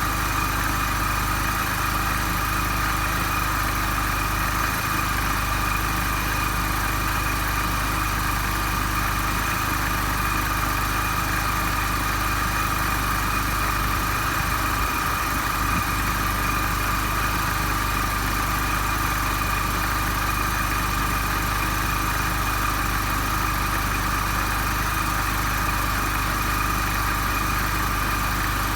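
MINI Cooper S (R53) supercharged 1.6-litre four-cylinder engine idling steadily, with a steady high whine over the running. The belt tensioner damper's broken rubber bushing, found to be the cause of an abnormal noise, has been repaired, and the water pump and supercharger oil are freshly renewed.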